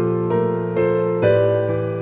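Background music: a gentle piano melody, a new note struck about every half second over held lower notes.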